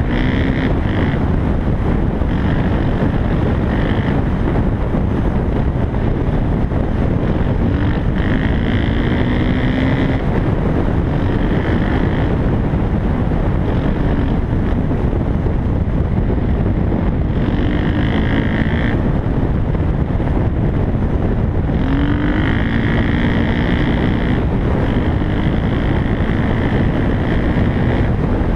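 Dirt bike engine running and revving as the bike is ridden, under heavy wind noise on the microphone. The engine note rises above the wind in several stretches, around a third of the way in, past halfway and near the end.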